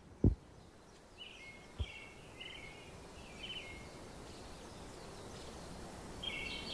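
Birds calling outdoors in short, repeated chirping phrases over faint steady background noise. There is a low thump just after the start and a smaller one about two seconds in.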